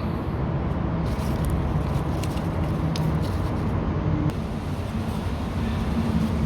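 Steady noise of rain, loud enough to make talk hard to hear, with a low hum underneath and a few faint clicks.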